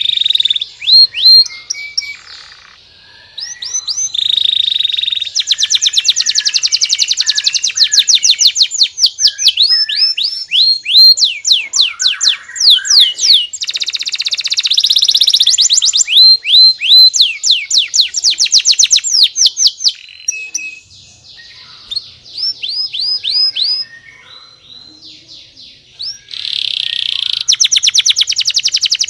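Domestic canary singing: long, high-pitched song made of fast trills of rapidly repeated notes, changing from one trill to the next every few seconds. There is a brief pause about three seconds in and a quieter lull past the two-thirds mark.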